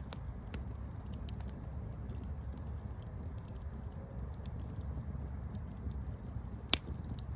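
Campfire burning with a steady low rumble and scattered small crackles, then one loud sharp pop near the end.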